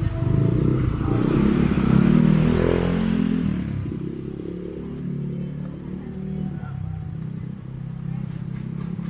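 A motorbike passing close by, its engine loudest about two to three seconds in and then fading away, leaving a steady low traffic rumble.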